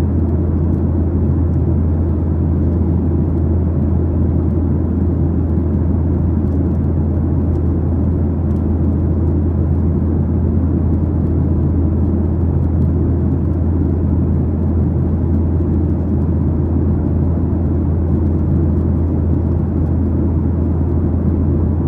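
Steady cabin drone inside a Boeing 737-900ER in flight after takeoff: the CFM56-7B engines and airflow heard from a passenger seat, a constant low rumble with no change in pitch.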